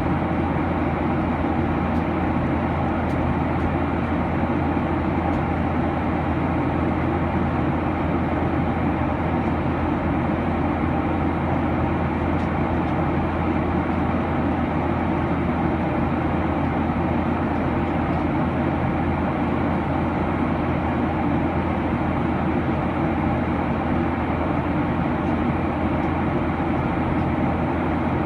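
Steady cabin noise inside a Boeing 737-900 in flight: the drone of its CFM56-7B engines and the rush of air past the fuselage, an even low rumble with no change.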